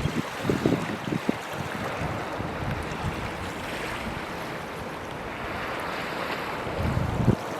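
Steady outdoor rushing noise of wind and waves, with low thumps of wind buffeting the microphone in the first second and again about seven seconds in.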